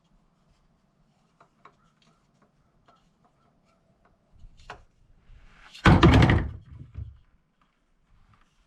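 Handling noises from work on the ATV: a few small clicks, then a loud clattering knock about six seconds in, lasting about half a second.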